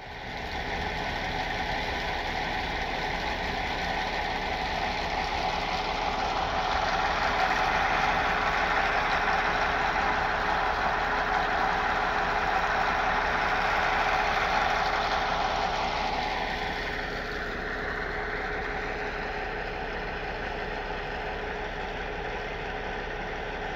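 Electric passenger train running along the tracks: steady rolling and traction noise, loudest in the middle, with a whine that falls in pitch about sixteen seconds in as the noise eases.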